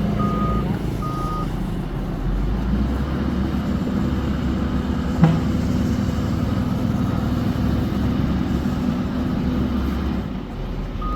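A crane's engine running steadily, with its reversing alarm beeping twice at the start before falling quiet. A single sharp knock comes about five seconds in.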